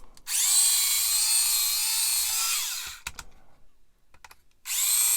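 Small electric hobby drill whining at high speed while it elongates a hole in a plastic model-kit part, then spinning down. A few light clicks follow, and the drill starts up again near the end.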